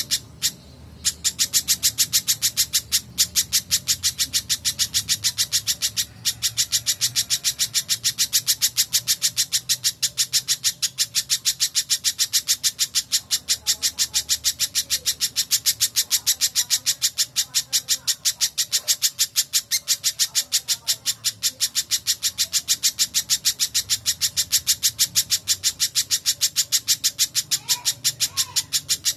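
Spiderhunter (pijantung) calling nonstop: a rapid, even string of sharp, high-pitched chips, about five a second. The string breaks briefly twice. Fainter lower bird notes sound behind it.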